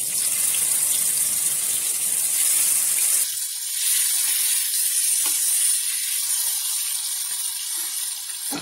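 Marinated chicken pieces sizzling as they fry in hot oil and ghee in a grill pan: a steady high hiss. About three seconds in, a lower rumble under it drops away and leaves only the hiss.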